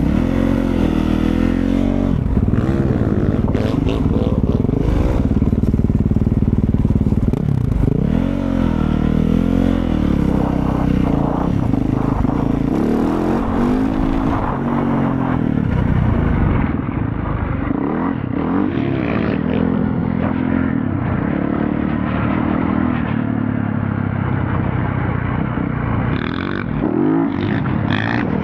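Motorcycle engine running while riding, its pitch rising and falling again and again as the throttle opens and closes, over a steady rush of noise.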